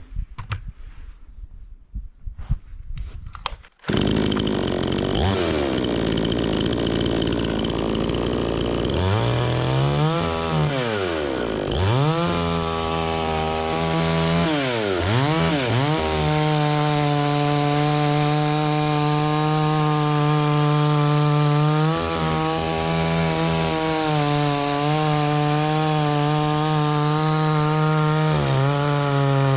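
A few knocks, then a two-stroke chainsaw engine running from about four seconds in. It is revved up and down twice, then held at a steady high speed with brief dips as it cuts through wood.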